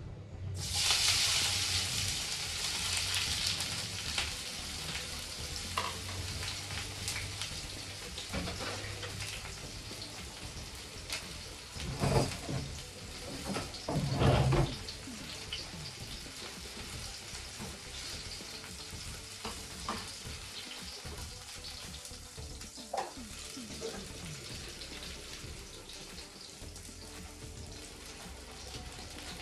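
Food sizzling in hot oil in a frying pan. A sudden loud hiss about a second in, as the food goes into the oil, eases into a steady sizzle. Two louder knocks or scrapes come around the middle.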